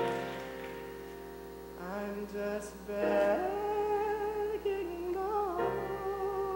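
Live musical-theatre music: a sustained chord from the accompaniment, with sung melody lines entering over it about two seconds in.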